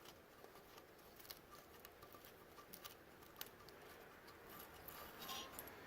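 Near silence with a few faint, scattered small clicks and taps.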